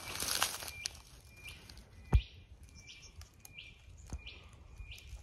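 A bird calling over and over, a short high note repeated about every 0.7 seconds. There is rustling at the start and a single sharp thump about two seconds in.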